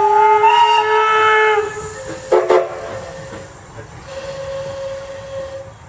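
Steam whistle blowing a long, loud chord of several tones that stops about a second and a half in, then one short blast about a second later. A fainter single steady tone sounds near the end.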